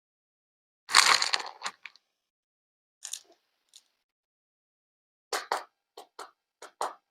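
Handling noises: a short crunching rustle about a second in, a couple of fainter ones, then a quick run of five or six sharp taps or clicks near the end.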